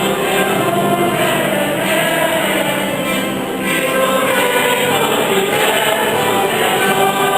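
Church choir singing a hymn together, with sustained, held notes.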